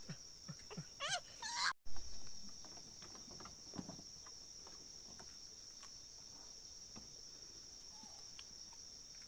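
Steady high-pitched insect chirring, with a brief wavering animal call about a second in and a few soft knocks.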